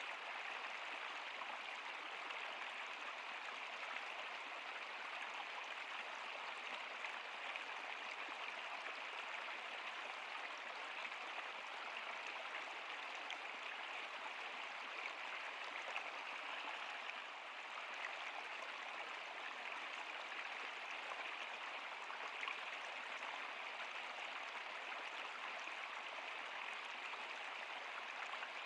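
A stream of water running steadily over rocks, a continuous even rushing and splashing.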